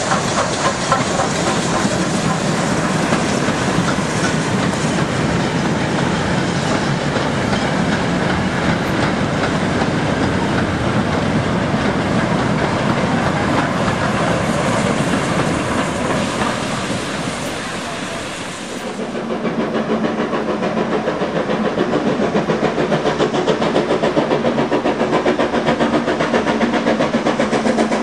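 Steam train running: a loud, steady hissing rush, which dips briefly about two-thirds in and gives way to a fast, regular beat.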